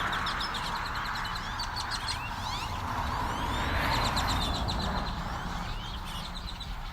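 A large flock of birds calling from the trees: many overlapping rapid chips and trills with quick rising whistles, over a steady hiss.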